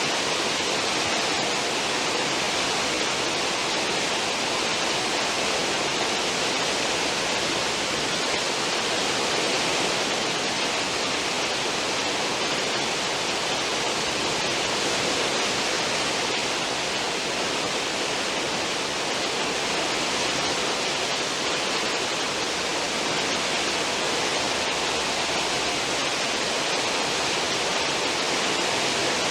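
Churning stern wake of a cruise ship: a steady, unbroken rush of foaming water.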